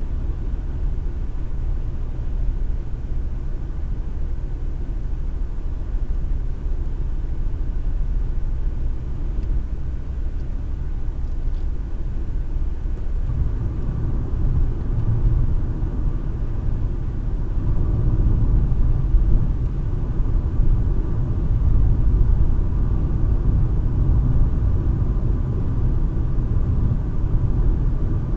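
Car driving, heard from inside the cabin: a steady low rumble of road and engine noise that grows louder about halfway through.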